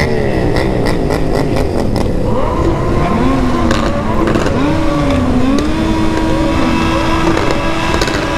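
Several remapped sport motorcycles running loud and revving around the rider. Engine pitch falls near the start, then climbs and drops again in the middle, with scattered exhaust pops and crackles.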